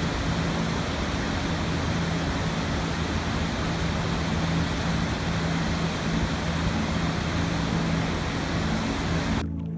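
Steady rushing water noise, like a waterfall, that starts abruptly and cuts off suddenly near the end, over a low sustained musical drone.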